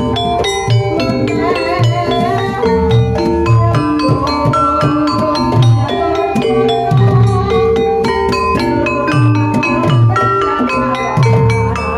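Gamelan music for a kuda lumping (ebeg) dance: mallet-struck keyed instruments play a busy, continuous melody over repeated low drum beats.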